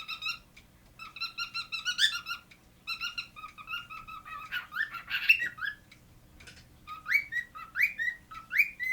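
Cockatiel whistling and chirping in several bursts of warbling notes, then a run of short rising whistles near the end.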